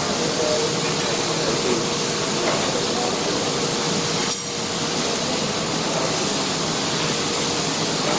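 Steady hiss of arc welding, even across all pitches, with a faint steady tone underneath and a brief dip about four seconds in.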